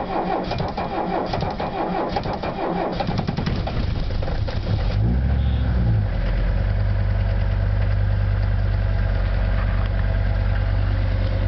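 Older Mercedes-Benz diesel engine being cold-started in severe frost: the starter cranks it unevenly for about five seconds, then it catches, runs up briefly and settles into a steady idle.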